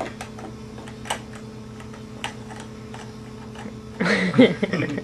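Light scattered clicks and taps of toy pieces being handled, over a steady hum. About four seconds in, a short vocal sound that bends up and down in pitch.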